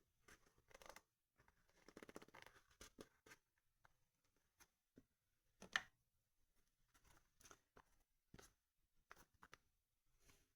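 Faint handling of packaging while a parcel is being opened: scattered light clicks and crackles, a patch of rustling and tearing about two seconds in, and one sharper click a little past the middle.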